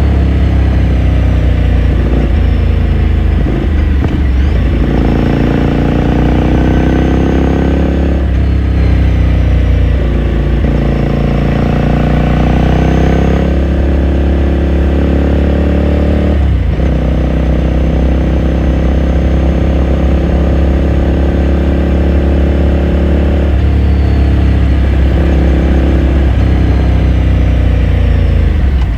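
2018 Ducati Scrambler Sixty2's 399 cc air-cooled V-twin with a raw exhaust, heard onboard while riding: the engine note climbs and then drops sharply several times as it shifts through the gears, holds steady for several seconds past the middle, then shifts again near the end.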